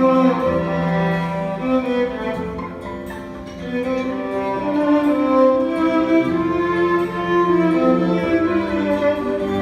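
Violin playing a slow melody of long held notes over a low string-like accompaniment, softening briefly about three seconds in before swelling again.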